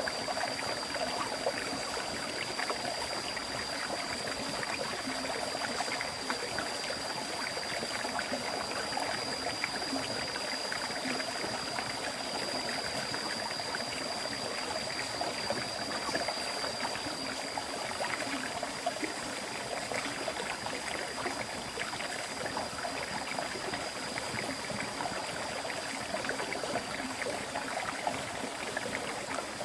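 River water flowing steadily over rocks as a continuous, even rushing and gurgling, with a thin steady high whine above it.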